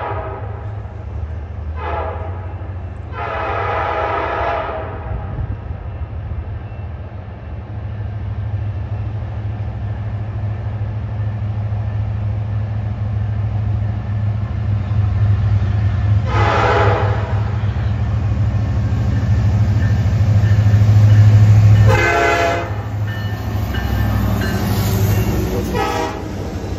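Diesel freight locomotives approaching and drawing alongside, their low engine rumble building steadily as they near. The locomotive horn sounds about five times: a short and a long blast a few seconds in, another long blast around the middle, and two more near the end as the engines pass.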